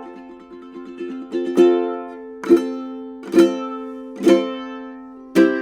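Custom Miller tenor ukulele with a solid cedar top and rosewood back and sides: a few soft picked notes, then chords strummed about once a second, each left to ring out.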